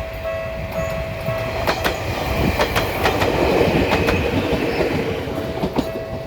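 Ueda Kotsu Bessho Line 1000-series electric train passing at a level crossing, its wheels clicking over rail joints and the running noise loudest about three to four seconds in. The crossing's warning bell pulses at the start and near the end and is drowned out while the train goes by. Wind buffets the microphone.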